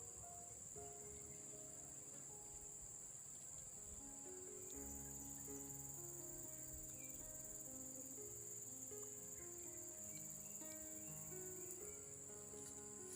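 Faint, steady, high-pitched insect chirring, crickets, with soft background music of slow stepping notes over it.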